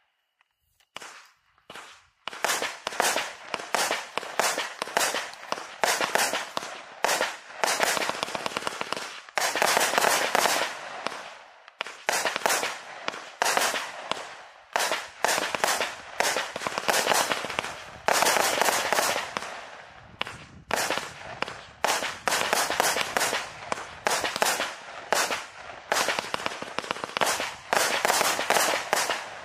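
A 180-shot, 20 mm consumer fireworks cake (battery) firing. It is nearly quiet for the first two seconds, then fires rapid shots in quick volleys, each shell bursting overhead.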